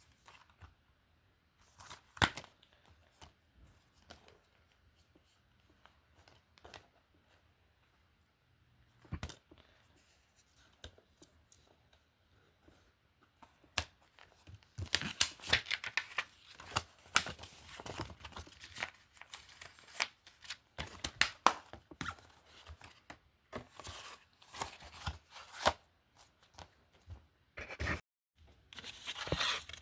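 Plastic DVD and Blu-ray cases being handled: scattered clicks and knocks, then a busier stretch of clattering and rustling from about halfway through.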